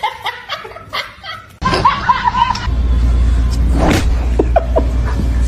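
A person snickering with short bursts of laughter, cut off abruptly about a second and a half in. A few brief vocal sounds follow, then a steady low hum starts just before the middle and runs on.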